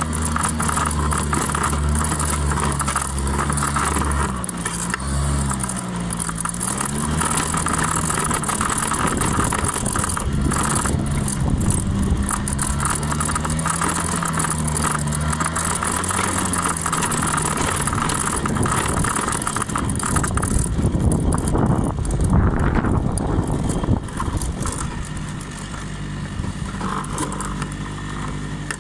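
Small 50 cc Honda scooter engine running, its note rising and falling with the throttle. About twenty seconds in a loud rushing noise takes over, and the sound drops quieter near the end.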